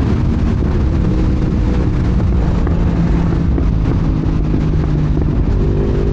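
Sport bike engine running under way at a steady speed, its note holding fairly even with small shifts in pitch, over heavy wind rush on the microphone.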